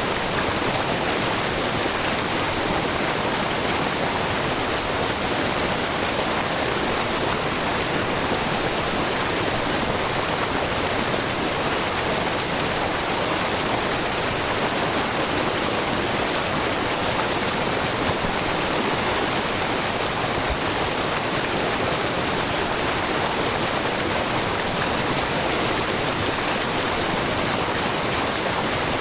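Steady, even rush of a wide, low waterfall, spring water spilling in many thin threads over a long rock face into a babbling brook, with no breaks or changes.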